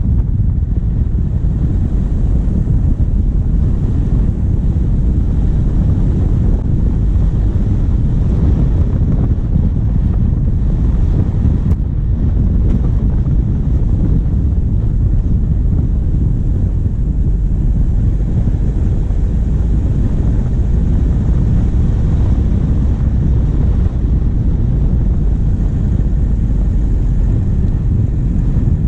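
Vehicle's diesel engine running steadily while driving, picked up by a bonnet-mounted camera, with wind buffeting the microphone: a constant low rumble.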